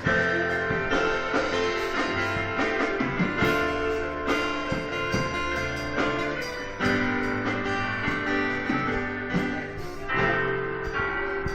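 Instrumental church music: guitars strumming and picking over a steady bass line, with sustained chords.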